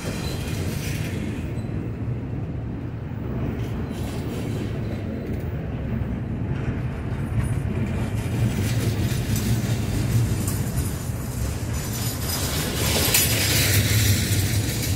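Norfolk Southern freight train rolling past: a steady low rumble of the cars with occasional clicks, getting louder near the end.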